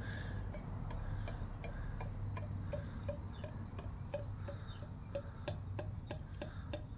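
Faint, regular ticking, several ticks a second, over a low steady hum.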